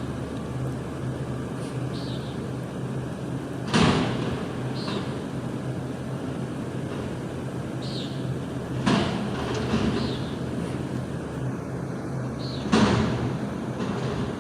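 Garbage truck engine running steadily while a dumpster is emptied, with three loud bangs of the metal dumpster being knocked up and down.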